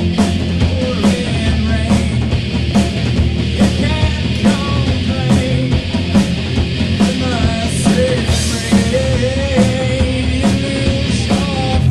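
A rock band playing live, with drum hits in a steady beat under a melody line that slides up and down in pitch.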